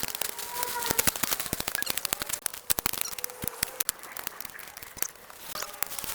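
Rapid, irregular crackling: many sharp clicks and snaps, thick at first and thinning out after about four seconds.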